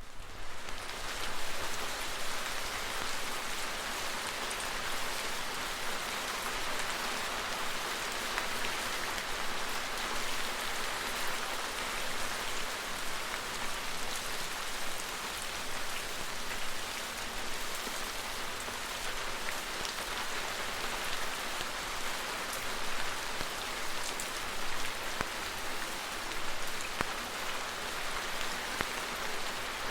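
Heavy rain falling steadily as a dense hiss with scattered fine patters. It starts abruptly as a new track on a vinyl sound-effects record, and keeps an even intensity throughout.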